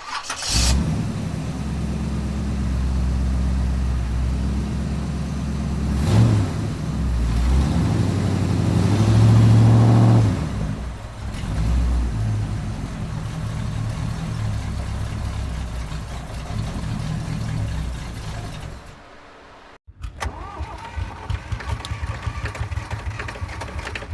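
An engine running with a low drone, revving up about six and ten seconds in. It dies away near the end, then starts again as a fast, even chugging idle.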